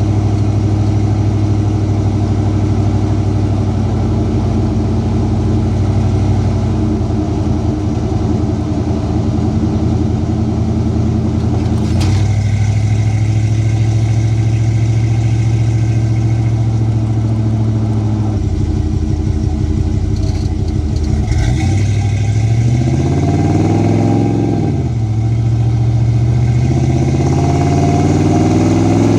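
Ford 7.3-litre Godzilla V8 with custom exhaust, running under way at highway speed. The engine note holds mostly steady and changes abruptly about twelve seconds in. Past twenty seconds it swells up and falls back once, then climbs again near the end.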